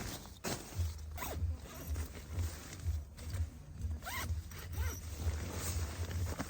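A zipper being pulled in short strokes, with a low uneven rumble underneath.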